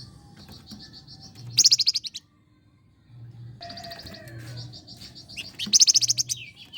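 A flamboyan cage bird singing in fast, rattling trills of rapid high notes, with two louder bursts, one about a second and a half in and one near the end, and a short pause about two seconds in. A faint steady low hum sits beneath.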